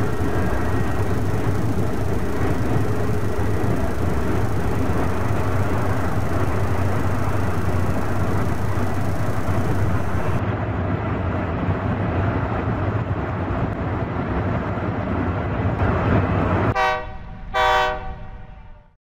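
Train running on the rails, a steady rumble that turns duller about ten seconds in. Near the end a train horn sounds two short blasts, then the sound fades out.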